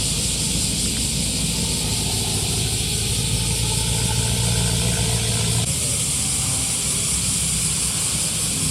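A car engine and exhaust running at low revs as the car rolls in slowly, under a steady hiss. The engine's low note is strongest in the middle and drops away a little past halfway.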